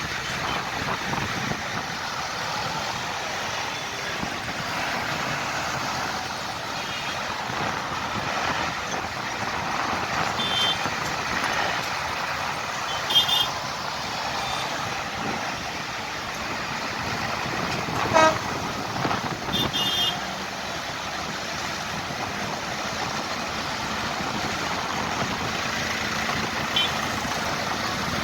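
Tractor engines running steadily as the procession goes by, with several short horn toots scattered through.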